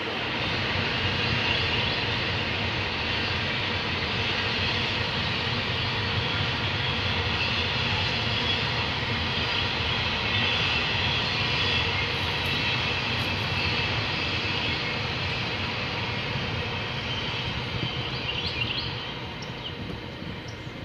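A passing train's steady rumble, easing off a little near the end.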